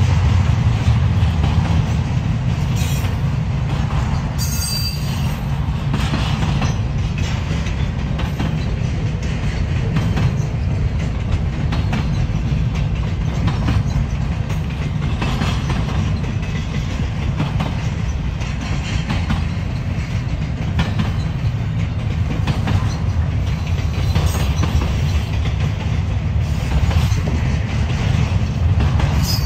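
Freight train rolling past at steady speed: a continuous low rumble of cars with wheels clicking over rail joints at regular intervals, and a brief high wheel squeal about four seconds in.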